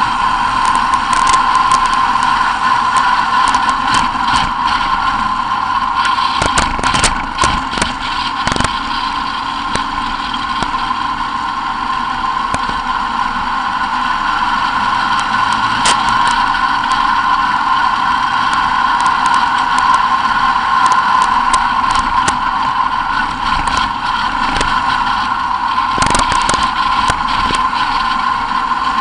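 Onboard sound of a race vehicle on a dirt track: its engine running hard at a steady, high-pitched drone, with knocks and rattles from bumps or gravel a few times, around a quarter of the way in, midway and near the end.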